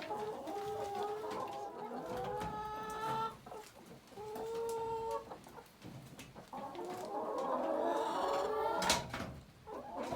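A crowded flock of hens clucking and calling over one another, with a few drawn-out notes among the short clucks. A sharp click or knock comes a little before the end.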